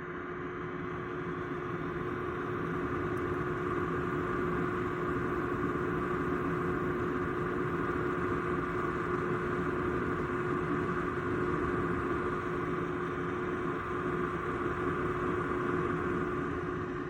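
Small Peltier-type desktop dehumidifier running, its fan giving a steady whir with a constant hum.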